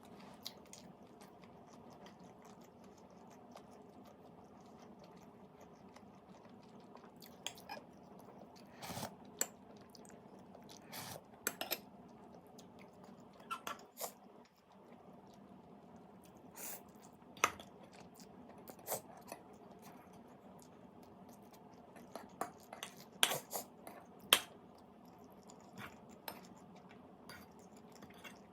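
A person chewing and crunching food close to the microphone, with scattered sharp clicks and crunches that cluster in two busier stretches, over a steady low hum.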